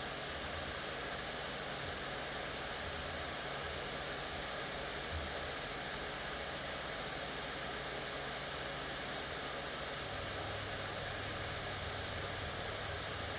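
Steady, even hiss with a low hum underneath; the hum grows a little about ten seconds in.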